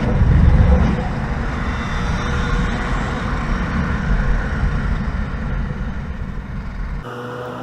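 Motorcycle running at speed with heavy wind rumble on the microphone, loudest in the first second. About seven seconds in the sound changes abruptly to a steadier engine hum with a clear pitch.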